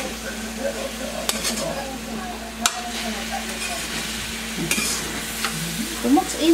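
Banana heart sautéing in a metal wok: a steady sizzle as a metal spatula stirs and scrapes through it, with a few sharp clinks of the spatula against the pan.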